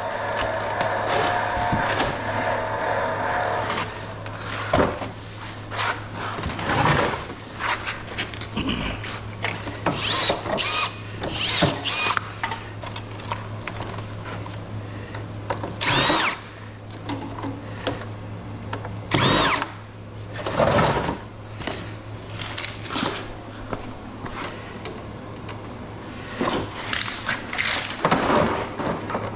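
A power drill or driver whirs steadily for about four seconds, then come a string of sharp knocks and clatters of parts being worked loose and handled. A steady low hum runs underneath.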